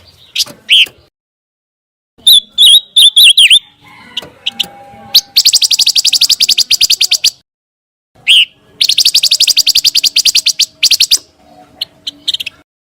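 Pancawarna bird singing. A short run of wavering whistled notes comes first, then two rapid trills of about two seconds each with short breaks between, and a few scattered single notes near the end.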